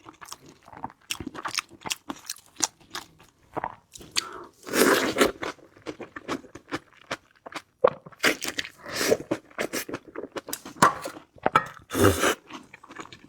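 Close-up crunching and chewing of food in a person's mouth: irregular crisp bites and crackles, with a few denser bouts of crunching.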